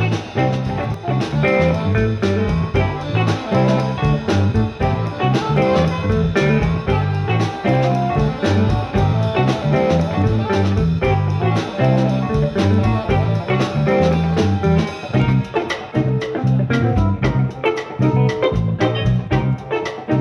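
A jazz-funk band playing live instrumental music: guitar over bass guitar and a steady drum-kit beat.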